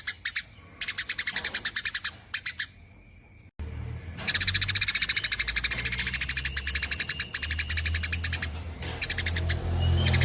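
Eurasian tree sparrow giving long, rapid chattering trills in bursts, the longest running for about four and a half seconds from around four seconds in. A low hum comes in a little past three seconds.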